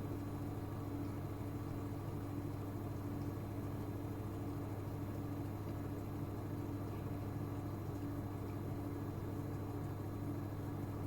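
Gorenje UseLogic 65165 washing machine running mid-cycle: a steady low hum with a constant tone above it.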